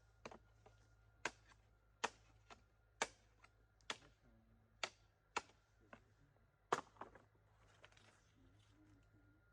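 Sharp, separate knocks of a hand tool striking, about one a second, ten or so in all, with a pair of quick knocks close together near the seven-second mark.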